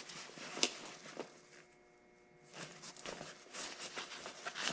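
Faint rustling and a few light clicks as an FXR Recon heated glove and its battery pack are handled, with the battery being tucked into the glove's pocket. The handling pauses briefly about two seconds in, then the rustling resumes.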